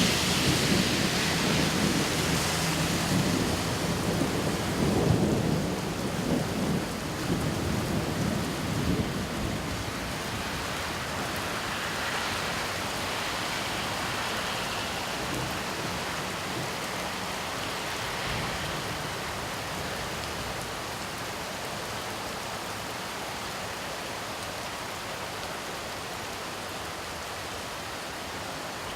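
Rain falling steadily, with a long rolling rumble of thunder over the first ten seconds or so that dies away, leaving the rain hiss on its own.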